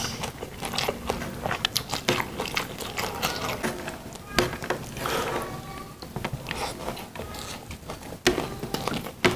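Close-miked eating sounds: a man chewing a mouthful of rice and vegetables, with irregular wet mouth clicks, smacks and some crunch.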